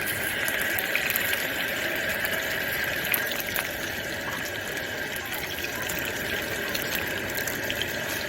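Water running steadily from a tap, with small scattered clicks over it.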